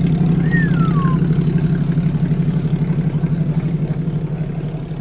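Small Porsche's engine idling just after a cold start, a steady pulsing exhaust note at constant pitch that gradually gets quieter over the last couple of seconds. A brief falling whistle sounds about half a second in.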